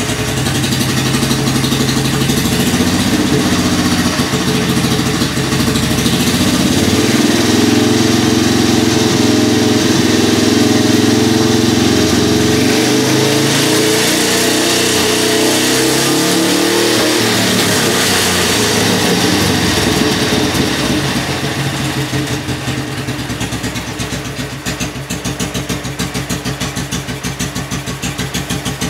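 BMW R25/3 single-cylinder four-stroke engine running on a test run after a rebuild with new points and valve adjustment: it is revved up from idle for about ten seconds, the pitch drops back, and it settles into a steady, evenly pulsing idle.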